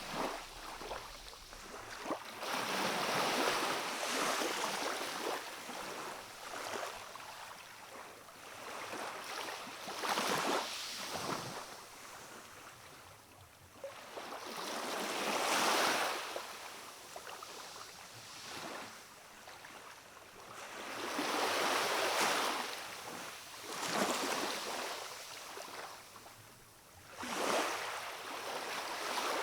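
Small waves of a calm sea washing onto a rocky shore. The wash swells and fades every few seconds.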